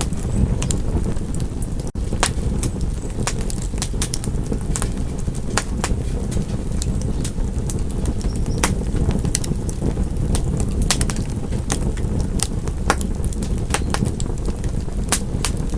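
Wood fire crackling: a steady low rumble of burning with frequent sharp pops and snaps, a few a second. The sound drops out for an instant about two seconds in.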